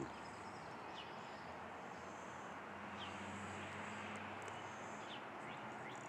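Faint outdoor backyard ambience with a few scattered short, high bird chirps from songbirds in the trees.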